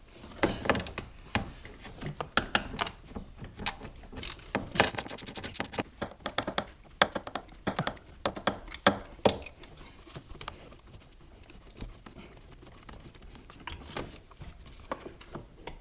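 A hand ratchet clicking and metal tools clinking in irregular bursts as a bolt is worked loose, with a quick run of ratchet clicks about five seconds in.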